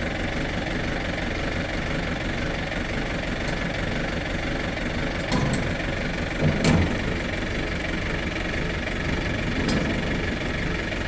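A steady engine running, with a few short knocks about halfway through.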